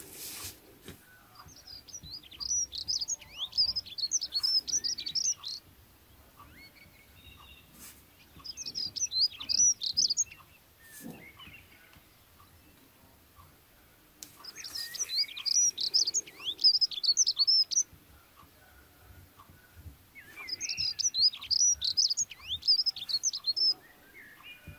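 A small bird singing in four bouts of rapid, high twittering, each a few seconds long, with short pauses between.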